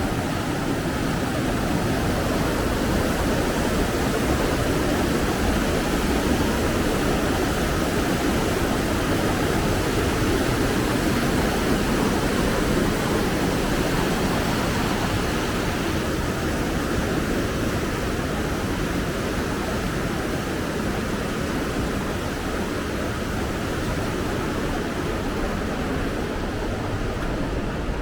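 Rushing water of the Tolminka river in its gorge: a loud, steady, unbroken noise of flowing white water.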